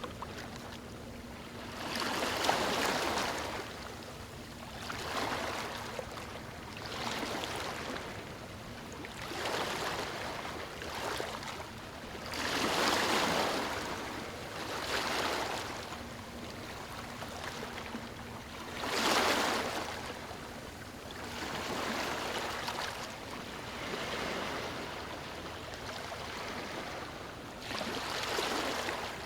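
Water washing and splashing in repeated swells, one surge every two to three seconds, a few of them stronger than the rest.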